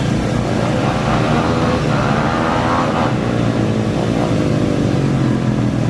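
Off-road racing engine revving twice, its pitch climbing about a second in and again near the middle, over a steady engine rumble.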